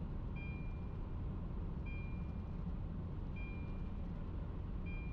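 Steady low rumble of a vehicle on the move, with a short high electronic beep repeating evenly about every one and a half seconds, three or four times.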